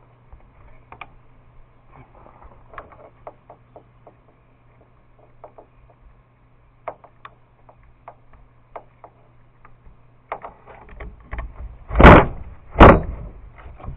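Scattered small clicks and taps of parts being handled, then two loud knocks about a second apart near the end, over a faint steady low hum.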